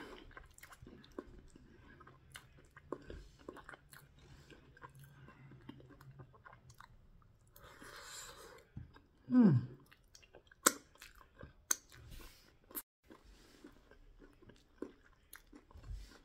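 Close-up mouth sounds of chewing soft fried ripe plantain and bean stew eaten by hand: many small wet clicks and smacks. About nine and a half seconds in comes a short hum that falls in pitch, the loudest sound here.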